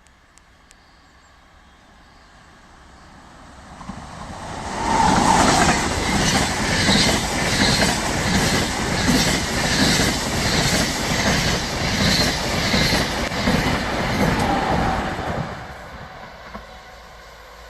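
A train passing through a station. Its wheels clatter in a regular rhythm over the rail joints. It grows from about four seconds in, stays loud for about ten seconds, then dies away near the end.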